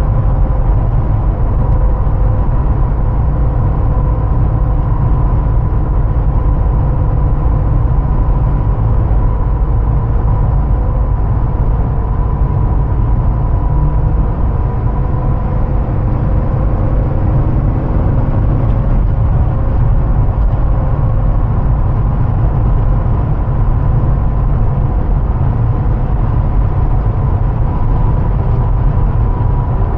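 2005 Hummer H2's 6.0-litre V8 and its tyres at a steady cruise: a constant heavy low rumble with a faint steady whine over it, with no revving or gear changes.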